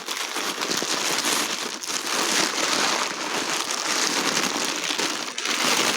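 Packing paper being crumpled and rustled by hand, a dense, continuous crackling.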